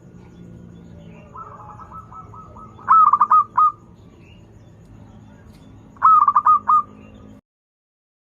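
Zebra dove (perkutut) singing: a soft run of quick stuttering notes, then a loud phrase of four or five cooing notes, with the loud phrase repeated about three seconds later. The sound cuts off suddenly near the end.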